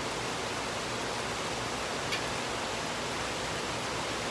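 Steady hiss of heavy rain falling in a thunderstorm, with one faint tick about two seconds in.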